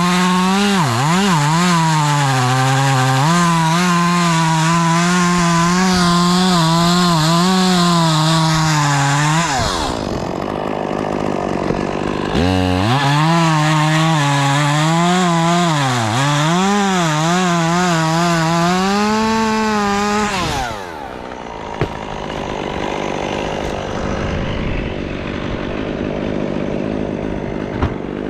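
Chainsaw cutting maple wood, its engine pitch dipping and climbing as the chain loads up in the cut. Two long cuts of roughly ten and eight seconds with a short break between, after which the engine note drops out, leaving a quieter steady noise.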